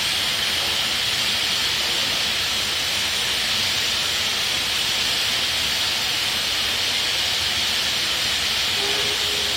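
Gr 625.100 steam locomotive letting off steam in a steady, continuous hiss. A faint low tone comes in near the end.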